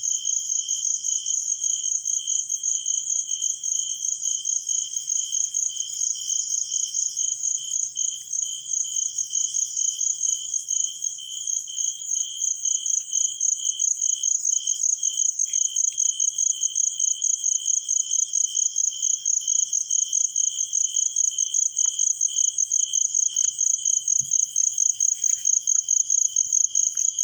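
Insects chirping steadily in an even, rapid pulse, about three or four pulses a second, with a shrill high band and a weaker lower one.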